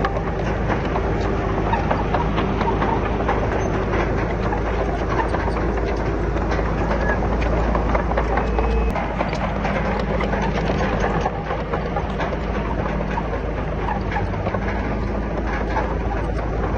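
Komatsu D31PX crawler bulldozer at work: its diesel engine runs steadily under a dense clatter of steel tracks and rock. The low engine note eases slightly about nine seconds in.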